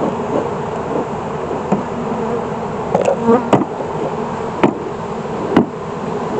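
Honeybees buzzing in a steady hum around an open hive, with four sharp knocks between about three and six seconds in.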